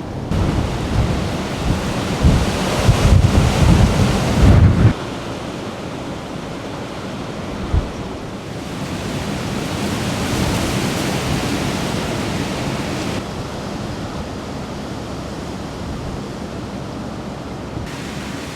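Typhoon storm noise: strong gusting wind buffeting the microphone with heavy low rumbling for about the first five seconds, then dropping abruptly to a steadier rush of wind and rain.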